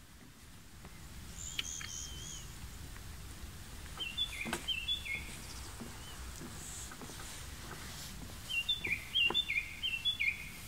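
A small songbird singing: a thin, wavering call early on, then two bursts of quick, short notes stepping down in pitch, the second burst near the end the loudest. Faint steady outdoor background underneath.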